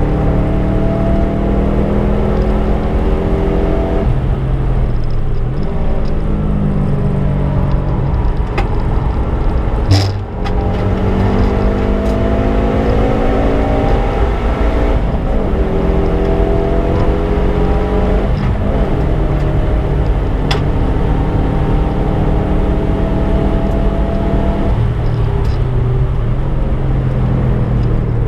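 Subaru Impreza's flat-four engine under hard acceleration on track: the engine note climbs in pitch through each gear and drops sharply at the changes, several times over. A heavy low rumble of road and wind noise runs underneath, and there is one sharp knock about ten seconds in.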